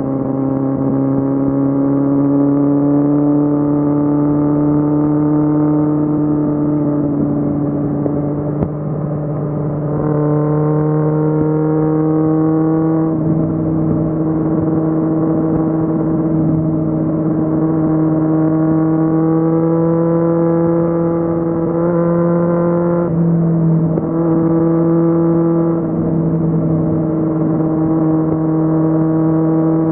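Kawasaki Z750 inline-four engine running under way, its note rising slowly with a few short breaks where the pitch drops and picks up again.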